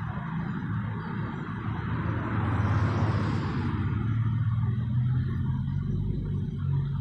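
Car engine idling with a steady low hum, while a passing vehicle's noise swells and fades about three seconds in.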